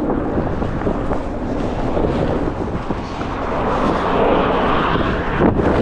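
Strong gusting wind buffeting the microphone, a steady rumbling rush that swells louder in the second half.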